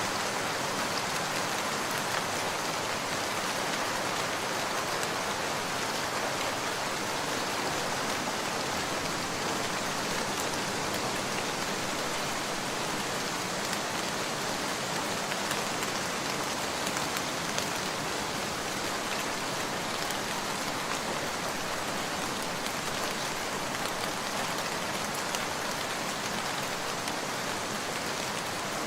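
Steady, even rain: a dense patter of drops with many small ticks, holding level throughout.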